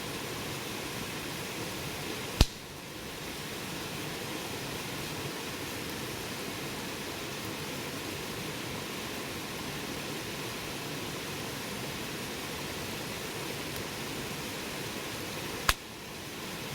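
Wood fire burning with a steady hiss, and two sharp pops from the burning wood, one about two and a half seconds in and one near the end.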